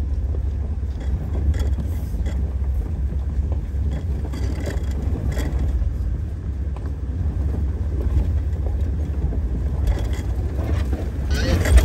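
Jeep Wrangler TJ running low and steady as it crawls over rocks, with occasional faint rattles.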